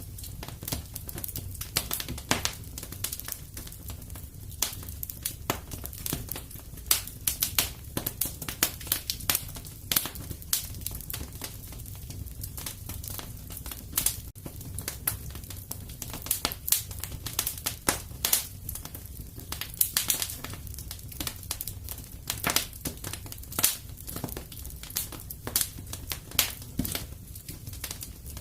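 Wood fire crackling and popping: frequent irregular sharp snaps over a steady low rumble of the flames.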